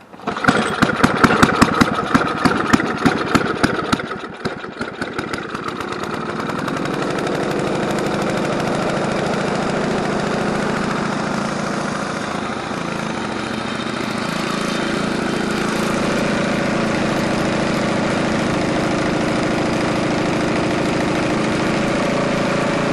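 Snowblower's single-cylinder four-stroke engine catching straight away after being primed, firing loudly and unevenly for about four seconds, dipping briefly, then settling into a steady run with small changes in speed.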